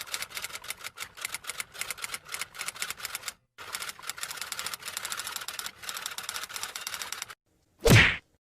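Typewriter sound effect: rapid keystrokes clattering in quick runs with brief pauses. Near the end comes a single short, louder swish.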